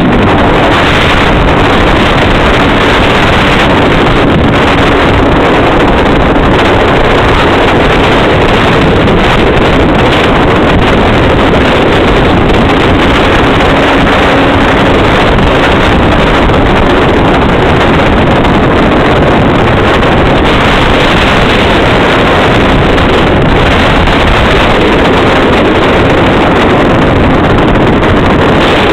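MZ TS 125's single-cylinder two-stroke engine running at a steady cruising speed, heard loud under heavy wind noise on the microphone.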